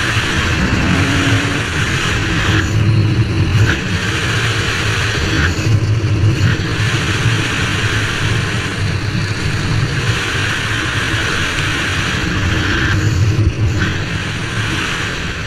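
Dirt bike engine running hard, with the throttle easing off and picking up again three times.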